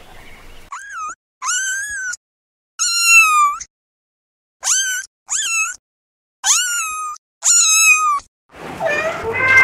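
Kitten meowing repeatedly: about seven high-pitched meows with short silent gaps between them, followed near the end by a denser run of overlapping meows.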